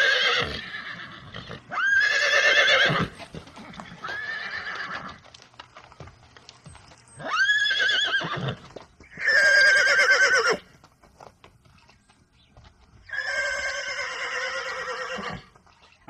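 Horses whinnying: about six neighs, each with a quavering pitch, spaced a second or more apart.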